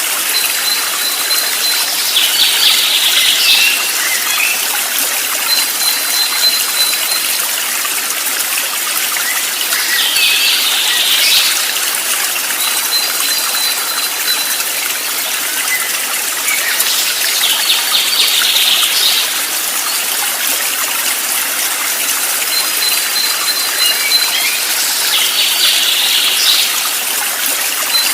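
Flowing stream water with a songbird repeating one phrase four times, about every seven to eight seconds: a thin, steady high whistle followed by a quick, dense trill.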